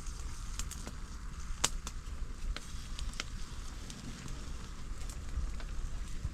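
Cooking fire crackling, with scattered sharp pops over a low steady rumble.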